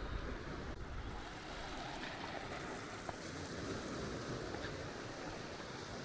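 Steady wash of sea water: an even rushing noise with no distinct strokes or tones.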